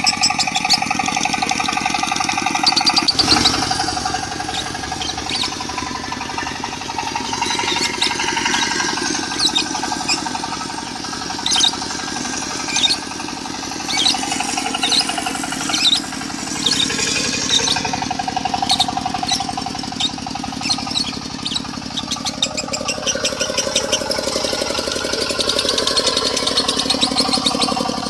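Lovebird chirping and trilling in the long-running konslet style, layered over a steadily running diesel engine.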